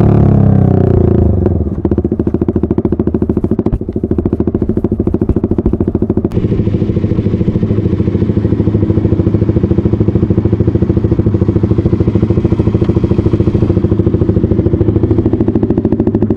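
Suzuki GSX-R150's single-cylinder four-stroke engine, its revs falling steadily for about the first two seconds as the motorcycle slows, then running evenly at low revs. The rushing hiss on top fades out about six seconds in.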